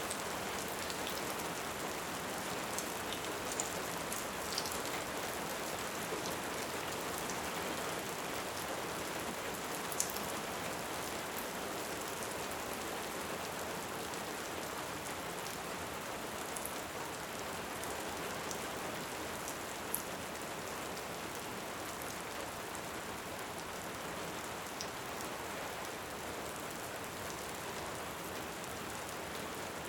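Steady rain, an even hiss of rainfall, with a few sharp crackles standing out now and then.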